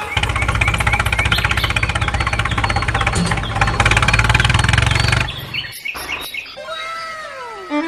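A small engine chugging with a fast, even beat for about five seconds, then cutting off suddenly. Bird chirps and falling whistles follow.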